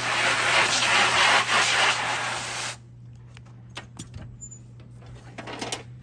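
A hose spraying with a loud, even hiss that cuts off sharply a little under three seconds in, over a steady low hum that stops near the end. A few light knocks and clicks follow the spray.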